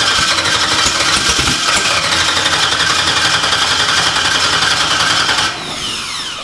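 Race car engine cranking on its starter and trying to fire but not catching; it wants to start. Near the end it stops and winds down with a falling whine.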